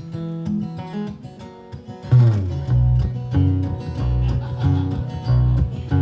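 Baritone guitar playing the picked instrumental opening of a country-walk-style song. A deeper, louder bass line comes in about two seconds in.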